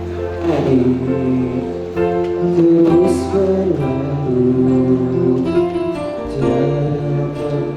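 Choir singing long, held notes with instrumental accompaniment over a steady bass line.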